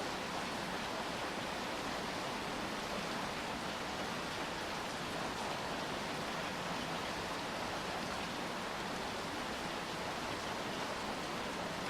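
Steady rain, an even hiss with no individual drops standing out.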